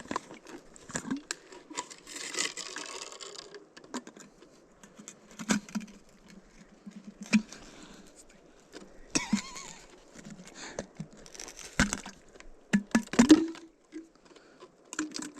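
Irregular knocks and clicks mixed with short bursts of rustling, as something is handled and pushed in by hand.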